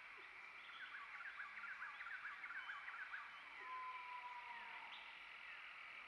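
A faint bird call: a quick run of about a dozen short sliding notes, then one long steady whistle about two-thirds of the way in, over a steady background hiss.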